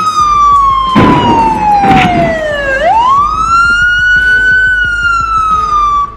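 Police car siren wailing: its pitch slides slowly down, then sweeps sharply back up a little under three seconds in and begins to fall again. Two short noisy bursts come about one and two seconds in. The siren cuts off suddenly at the end.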